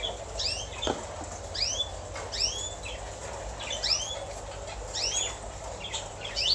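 Cage birds chirping: short, high, arching chirps, often two at a time, repeating about once a second, with a soft knock about a second in.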